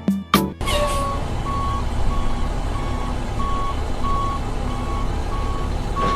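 A vehicle's reversing alarm beeping steadily, about one and a half beeps a second, over a low engine rumble; it starts suddenly just after music at the start.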